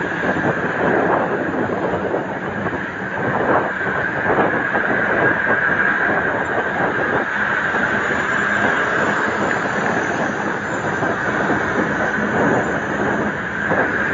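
Wind rushing over the microphone with road and tyre noise from a moving bicycle: a steady, loud rush with constant rattling.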